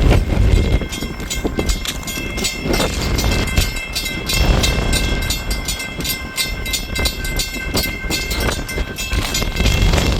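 Train rolling past, its wheels clattering, with strong wind buffeting the microphone. Several steady high ringing tones run through it.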